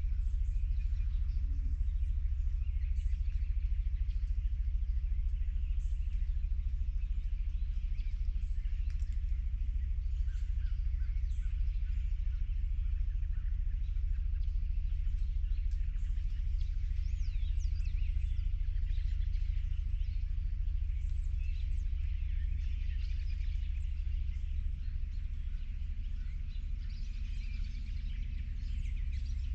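Several songbirds chirping and singing, short calls and quick whistled glides overlapping one another, over a steady low rumble.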